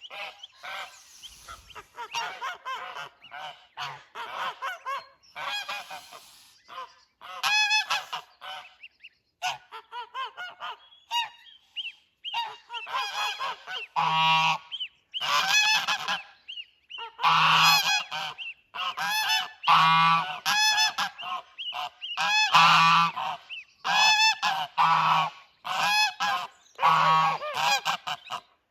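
Geese honking over and over, the calls sparse at first and coming louder and about once a second from around halfway through.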